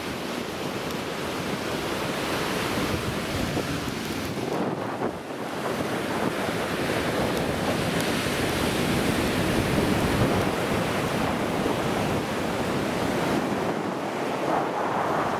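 Ocean surf washing on the beach, mixed with wind buffeting the microphone.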